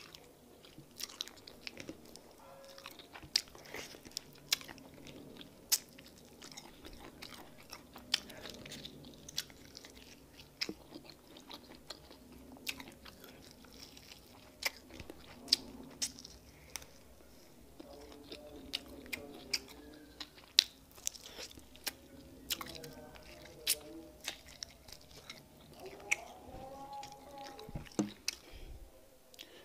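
Close-up sounds of a person biting and chewing meat from peanut soup, with sharp wet mouth clicks and smacks scattered unevenly throughout. There are brief low voiced hums near the end.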